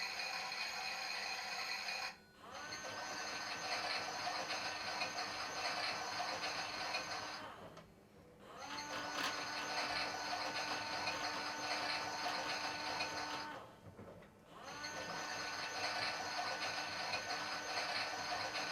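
Toy Miele washing machine's small electric motor whirring as it turns the drum, in runs of about six seconds. Each run spins up with a short rising whine, then holds steady until the motor stops briefly, three times over.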